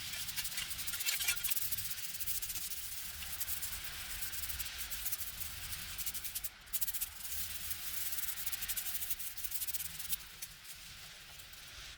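Continuous rasping scrubbing against a hard surface, with a short break about six and a half seconds in and quieter for the last two seconds.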